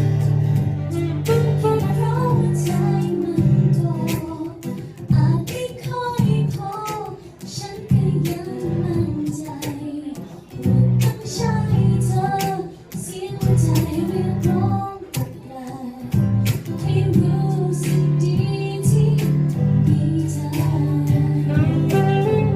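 Band music: a Thai song with a high voice singing a wavering melody over guitar, steady low bass notes and light percussion strikes.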